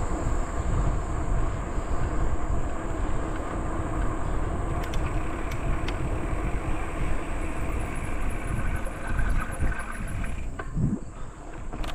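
Wind buffeting the microphone of a cyclist riding along a trail, a steady rumbling rush, with a faint steady high-pitched insect drone behind it.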